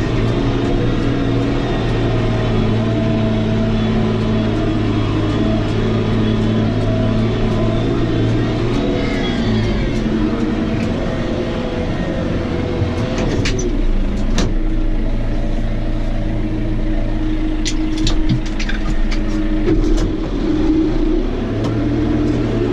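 John Deere tractor's diesel engine running steadily, its pitch shifting about nine to ten seconds in. A few sharp clicks or knocks come around thirteen to fourteen seconds and again around eighteen to twenty seconds.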